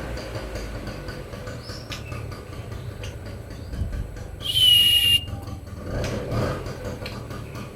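White-rumped shama giving a single clear whistled note about halfway through, sliding down slightly and then held, over a low steady rumble.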